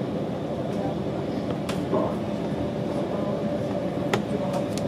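Inside a Deutsche Bahn InterCity 2 Twindexx double-deck coach running at speed: a steady rumble with a faint whine from about two seconds in, and a few sharp clicks, one under two seconds in and a cluster near the end.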